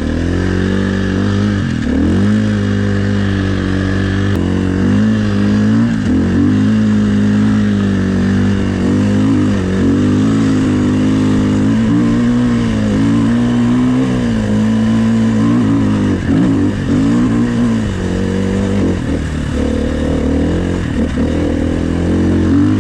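Dirt bike engine revving up and down again and again as the throttle is worked to push through slippery, slushy snow.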